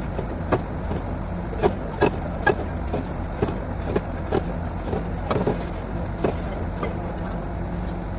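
Borewell drilling rig's engine running steadily at a low hum, with sharp knocks about two a second at uneven intervals.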